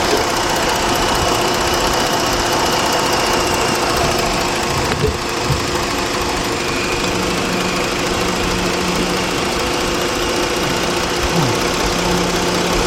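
Jeep Grand Cherokee's 3.7-litre V6 engine idling steadily, with a couple of faint clicks about five seconds in.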